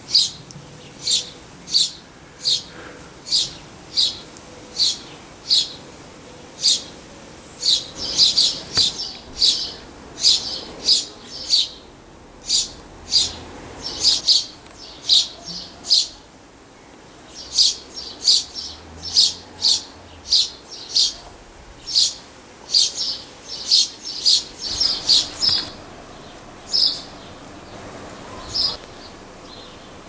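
A bird calling a short, high note over and over, about one to two calls a second, sometimes in quick pairs, with a couple of brief pauses.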